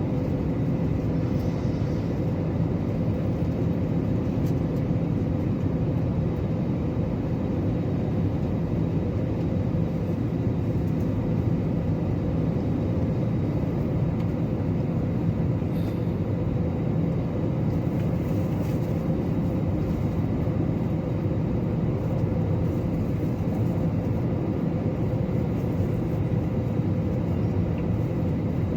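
Steady drone of an airliner cabin on approach to landing: jet engine and airflow noise, with a faint steady hum over it.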